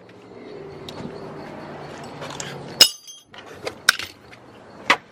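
Metal tools and parts clinking and knocking, with a sharp ringing metallic strike about three seconds in and a few more knocks near the end, over a steady low hum.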